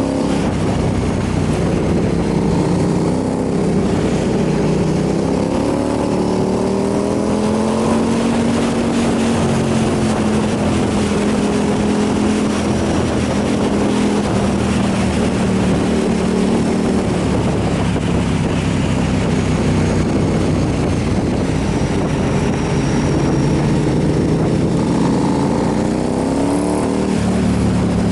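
Motorcycle engine running at road speed over a steady rush of wind and road noise. The engine note rises twice as it accelerates, once about five seconds in and again near the end.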